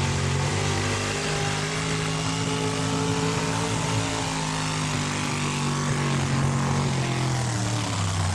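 Modified four-wheel-drive pulling truck's engine at high revs, dragging a weight-transfer sled down the track in a steady, loud drone. Its pitch eases down slightly near the end.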